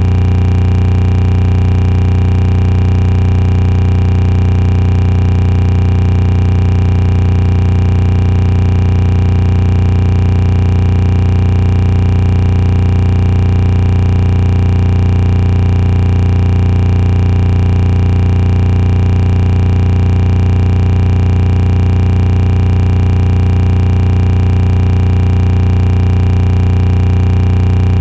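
A loud, steady electronic drone of several held tones that never changes, with a faint fast pulsing in the low end.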